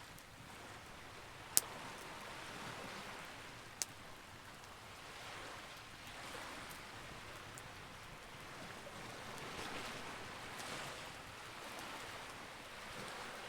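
Campfire burning with a soft steady hiss that swells and fades, and two sharp crackling pops about one and a half and four seconds in.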